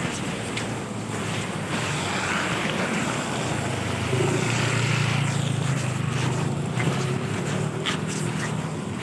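Outdoor wind and rushing noise, with a vehicle engine's low hum that swells and fades about halfway through as it passes.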